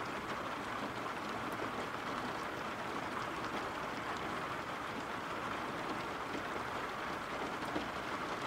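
Steady rain ambience: an even hiss of rain falling on a surface, without change.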